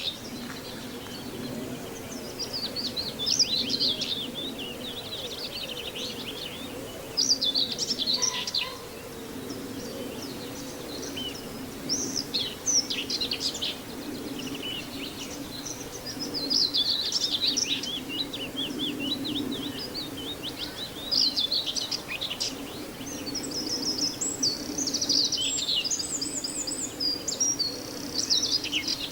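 Common whitethroat singing short, scratchy warbling phrases, one every few seconds, with a low steady hum underneath.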